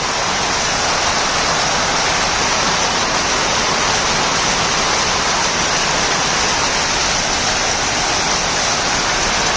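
Rain falling steadily: a loud, dense, even hiss with no let-up.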